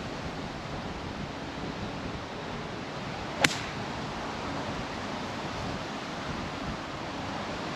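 Steady wind buffeting the microphone, with a single sharp crack of a golf club striking the ball about three and a half seconds in.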